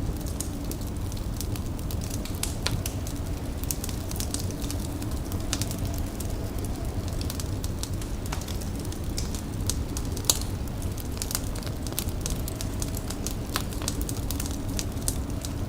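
Fire crackling steadily, with frequent sharp pops and snaps scattered over a low, even rumble.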